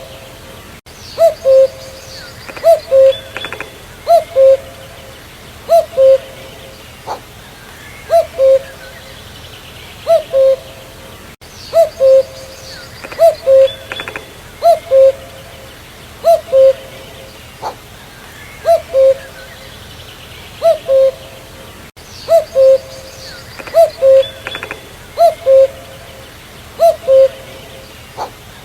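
Common cuckoo (Cuculus canorus) giving its two-note "cu-coo" call, the second note lower than the first, repeated steadily about every one and a half seconds. Faint twittering of other birds lies behind it.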